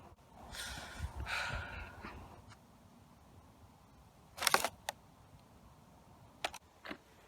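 A short breathy voice sound in the first two seconds, then a few sharp clicks: a loud quick cluster about halfway through, another click just after, and two more near the end.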